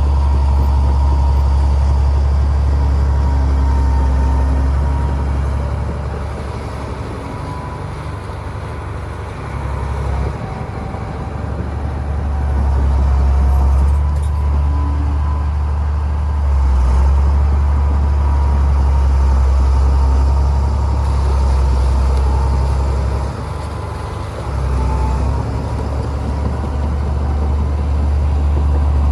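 Heavy diesel earthmoving machinery running with a deep, continuous engine drone. Its loudness rises and falls, dipping twice.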